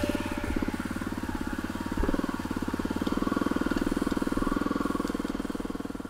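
Honda CRF250M's single-cylinder four-stroke engine running steadily, with even, rapid firing pulses, as the bike is ridden off-road. A single knock sounds about two seconds in.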